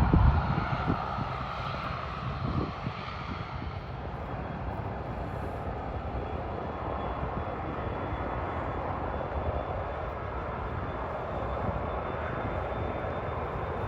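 Aircraft engines running: a steady rushing noise that eases over the first two seconds, then holds level, with a faint high whine in the second half.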